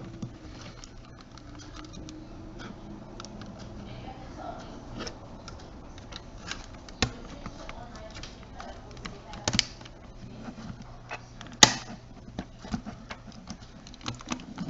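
Small plastic clicks and taps of a camcorder's housing parts being handled and fitted together, with one sharp snap about three-quarters of the way through.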